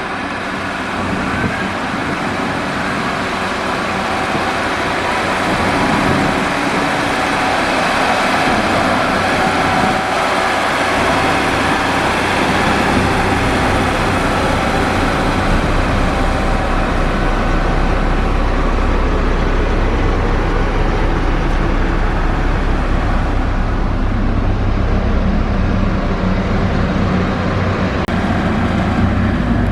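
Heavy road-construction machinery running steadily: a diesel engine's low hum under a broad, continuous noise, with the engine note growing stronger about halfway through.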